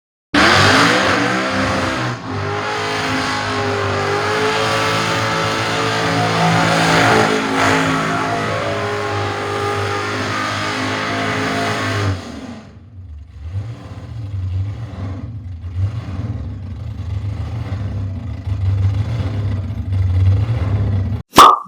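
Supercharged engine of a blown VT Calais held at high revs in a skid (burnout) for about twelve seconds, its pitch wavering, then dropping to lower revs with rough, uneven blips. A sharp, loud burst comes just before the end.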